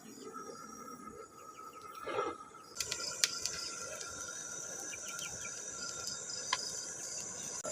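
Insects chirping in a steady high-pitched chorus with an evenly pulsed chirp, growing louder about three seconds in, with a few sharp clicks.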